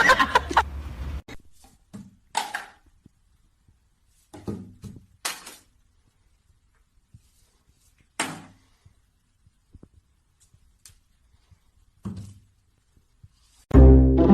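A few scattered, separate thumps and knocks in a small, quiet room, about five over ten seconds. Music starts suddenly near the end.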